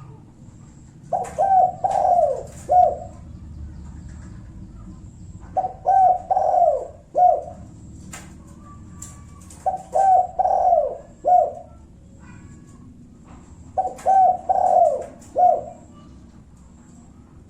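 Spotted dove (tekukur) cooing, the 'kuk satu' song type: four calls about four seconds apart, each a run of four coos with the last one set slightly apart.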